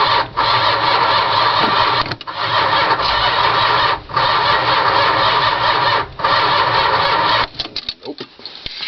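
Starter cranking the 1978 Dodge Ramcharger's 440 big-block V8 on a cold start with no working choke, the engine not catching. The cranking has short breaks about every two seconds and stops about 7.5 seconds in, followed by a few weak, uneven sputters as the battery runs down.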